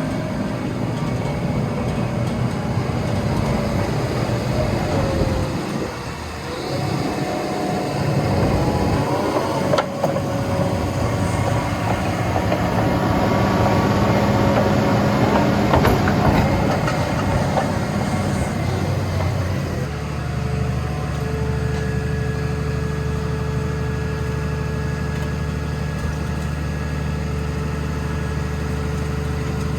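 Diesel engine of a Vögele Super 1800-3i asphalt paver running. Its pitch shifts through the first two-thirds, then settles into a steady, even run.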